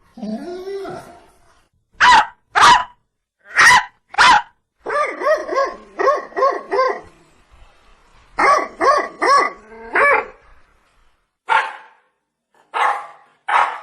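Dog barking repeatedly, loud and sharp: a few spaced barks, then quick runs of several barks in a row, then single barks near the end.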